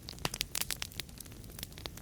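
Wood fire crackling in a fireplace: a cluster of sharp pops and snaps in the first half, thinning out later, over a steady low rumble and soft hiss of the flames.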